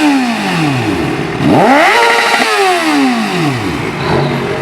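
A vehicle engine being revved twice. The first rev is falling back at the start. The second climbs about a second and a half in, holds briefly, then drops back to idle just before four seconds.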